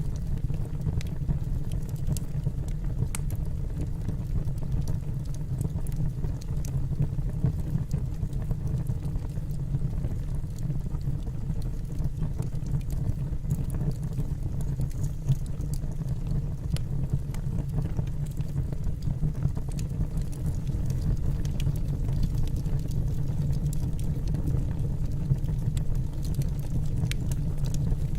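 Wood fire burning in a fireplace: a steady low rumble with scattered small crackles and pops from the burning logs.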